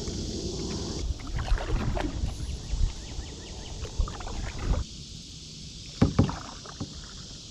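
Kayak being paddled: irregular water splashes from the paddle and knocks of the paddle against the hull, with two sharp, loud knocks about six seconds in.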